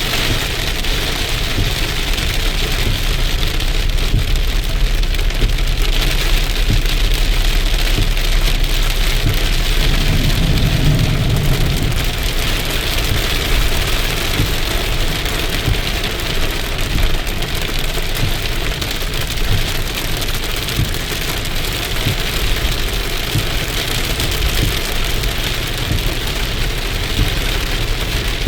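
Heavy rain falling and pattering steadily on surfaces, with a steady low hum underneath that swells briefly about ten seconds in.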